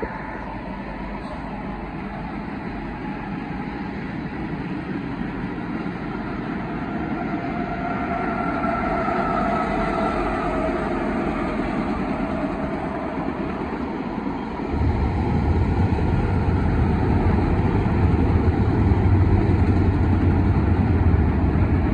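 Union Pacific diesel freight locomotives passing close by, engines running, followed by autorack cars rolling on the rails. About two-thirds through a deeper, louder rumble comes in.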